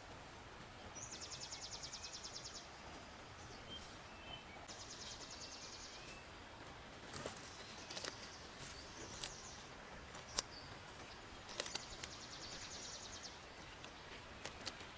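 Faint forest-stream ambience: a steady low hiss of running water, with a high, rapidly pulsed trill repeated three times and several sharp clicks in the second half.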